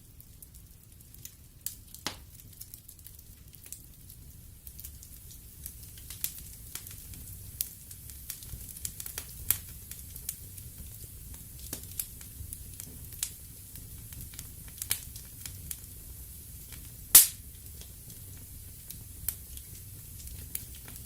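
Wood fire crackling in a fireplace: scattered sharp crackles and pops over a low, steady rumble of flames, with one loud pop late on.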